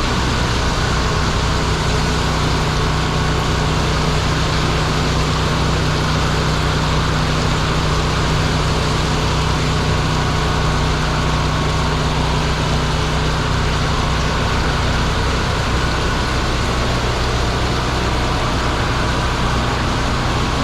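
A generator engine running with an even hum under the loud rush of hurricane-force wind and rain.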